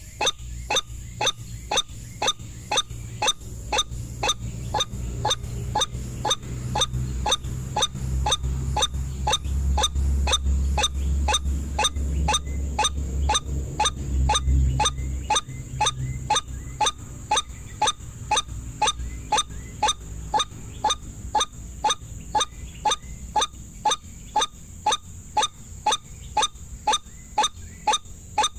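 White-breasted waterhen (ruak-ruak) call, a short call repeated steadily about twice a second, as from a bird-call lure. A low rumble sits under it for several seconds in the middle.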